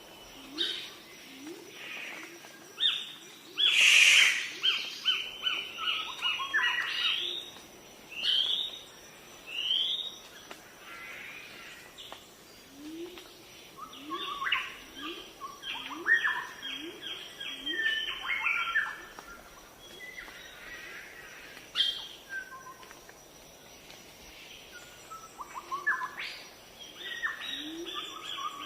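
Several birds calling: rapid series of short chirps repeating throughout, with a low short rising note repeated about once a second underneath. About four seconds in there is a loud harsh burst, the loudest sound here.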